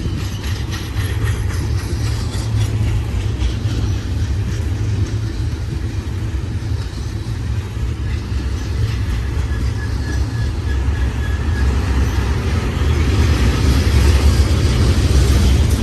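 BNSF double-stack container train rolling past, a steady noise of cars on the rails that grows louder over the last few seconds.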